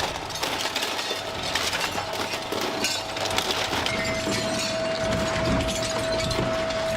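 A car body being crushed under a demolition machine's steel claw: continuous crunching, cracking and breaking. A steady high whine joins in about four seconds in.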